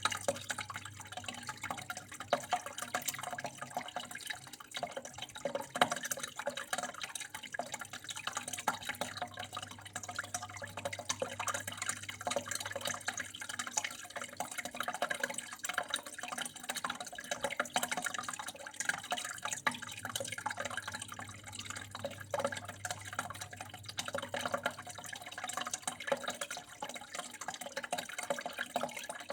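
Water flowing and trickling steadily, a continuous patter of small drips and splashes.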